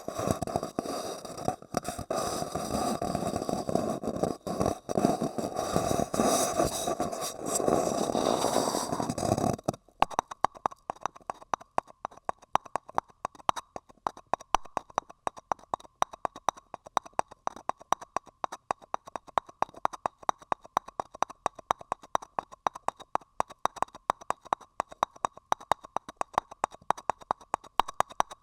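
Close-miked ASMR sounds: about ten seconds of dense, crackly scratching and rubbing, then an abrupt switch to rapid, even tapping, several sharp clicks a second.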